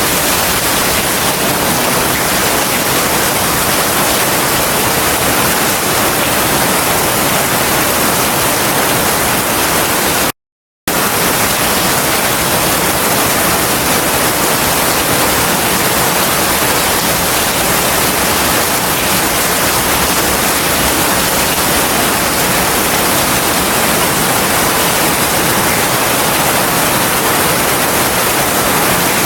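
Heavy rain falling in a dense, steady hiss. The sound cuts out completely for about half a second about ten seconds in, then resumes unchanged.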